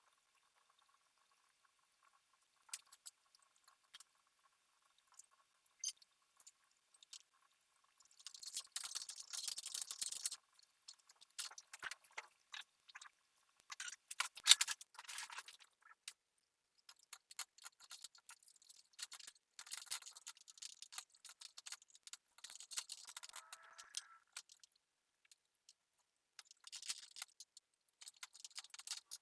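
Intermittent light scraping and rustling with small clicks and taps, the loudest a sharp click about fourteen and a half seconds in, and a short squeak a little past twenty-three seconds.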